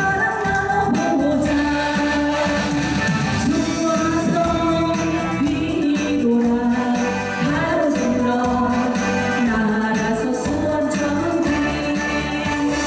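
A trot song sung live by a female singer over instrumental accompaniment.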